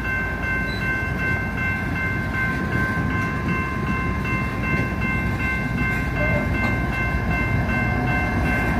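Freight cars of a coal train rumbling steadily over a grade crossing, with the crossing's warning bell ringing a constant high tone over the rumble. Near the end a fainter low engine tone comes in as a BNSF diesel locomotive in the train nears the crossing.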